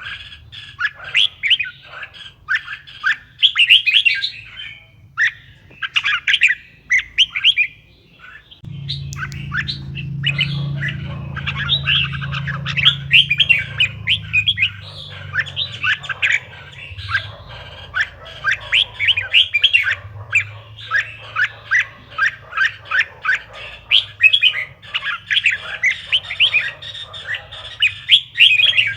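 Red-whiskered bulbul song: quick, rapid runs of bright chirping notes, near-continuous, with short pauses. A steady low hum joins about nine seconds in.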